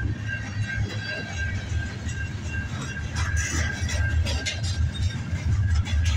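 A long CN mixed-freight train's cars rolling past: a steady low rumble with sharp clicks and a faint steady high tone.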